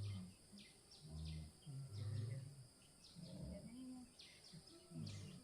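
Quiet outdoor ambience: a steady high insect drone with short bird chirps, over low, murmured voices that come and go.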